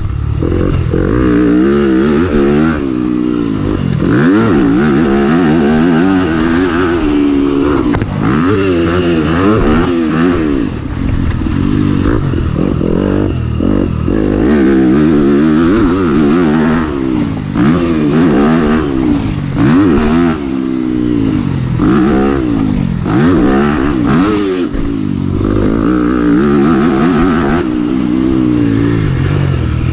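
Motocross bike engine on the track, revving up and dropping back again and again as the throttle is worked.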